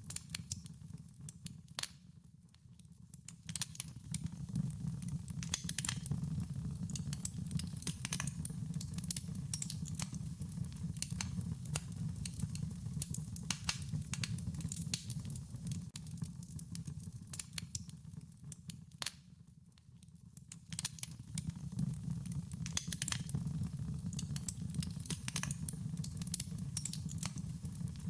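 Wood fire crackling: irregular sharp pops and snaps over a steady low rumble of burning. Both ease off briefly twice, about two seconds in and again near the middle.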